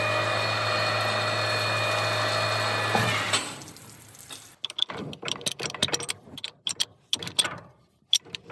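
A steady mechanical hum with a low drone and several held higher tones, cutting off a little over three seconds in, followed by a string of sharp clicks and knocks.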